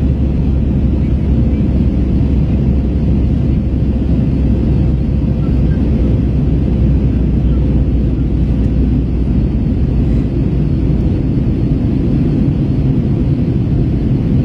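Steady cabin drone of an Airbus A321 in flight: engine and airflow noise, low and even, with a faint steady hum above it.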